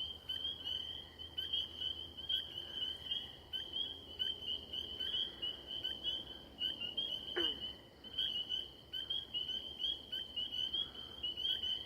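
A dense pond frog chorus: spring peepers pipping in a steady, overlapping high chorus, with grey tree frogs trilling beneath. A single lower call slides downward about seven seconds in.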